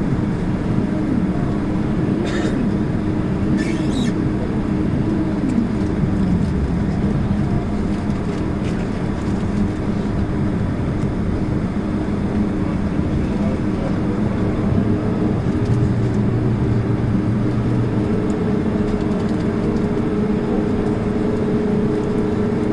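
Steady cabin noise of a Boeing 767-300ER rolling on the ground after landing: the engines' low hum with an even roar. Two brief rattles come a few seconds in.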